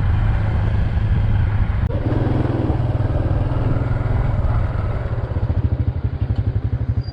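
Honda Super Cub's single-cylinder four-stroke engine running as the bike rides off. About five seconds in, the engine note drops to a low, even pulsing in which the separate firing strokes can be heard.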